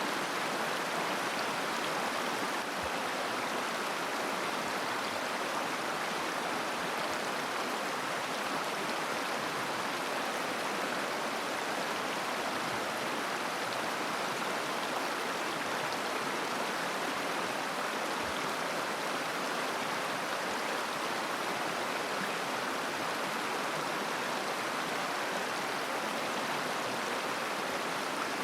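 Shallow mountain river babbling over stones, a steady, even rush of water.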